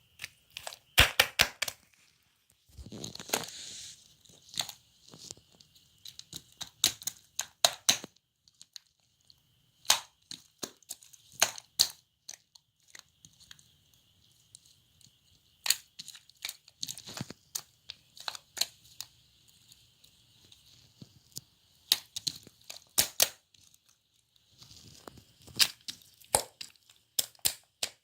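Irregular sharp cracks and snaps, some in quick clusters, with a few short stretches of crinkling.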